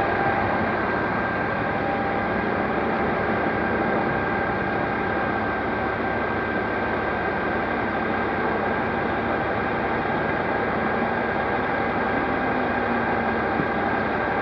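Steady road and engine noise of a moving vehicle, with a thin, steady whine running through it.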